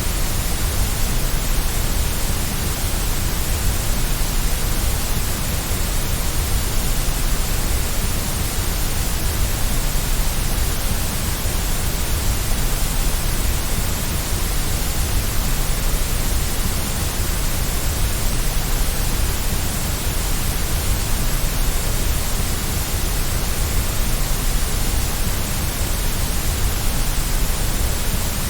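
Steady white noise: an even hiss with a low rumble beneath it, unchanging.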